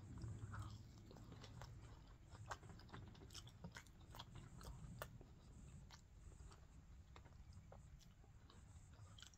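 Faint mouth sounds of a person chewing a French fry dipped in ranch dressing: scattered soft clicks over a low background hum.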